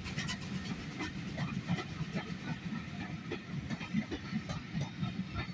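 A train of passenger coaches hauled by a steam locomotive rolling past, its wheels clicking over the rail joints against a steady hiss.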